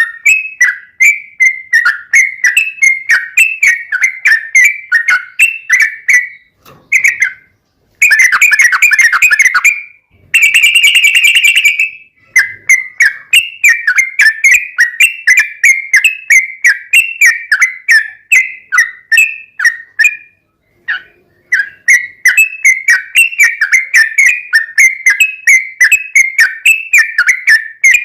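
Sooty-headed bulbul (trucuk) singing a rapid, unbroken run of whistled notes, about four a second. The run stops briefly twice, and a third of the way in it breaks into two dense, fast trills.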